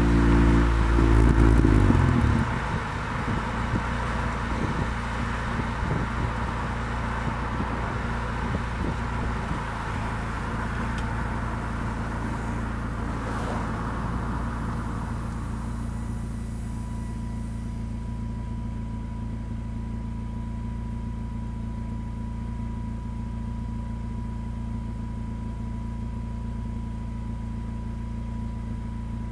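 Honda Integra GSR's B18C four-cylinder engine with Type R camshafts and aftermarket exhaust, running loud under throttle for about two seconds, then dropping sharply to a steady low drone as the throttle comes off.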